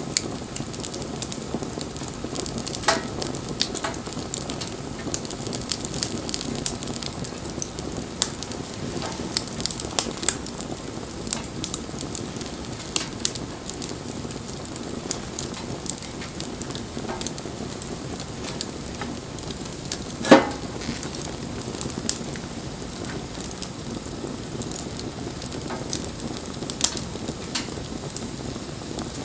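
Wood bonfire burning: a steady hiss with scattered sharp crackles and pops, one much louder pop about twenty seconds in.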